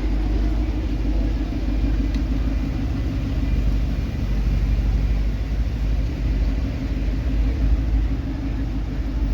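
Steady low rumble of cars in street traffic, with no sudden events.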